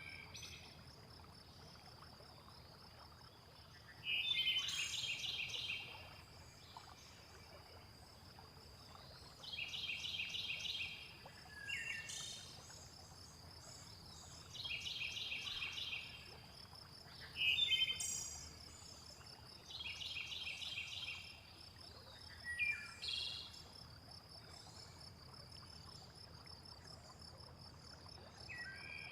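Nature soundscape: a bird calls again and again, a trill about a second and a half long alternating with a short falling call, every few seconds, over the steady high chirring of insects.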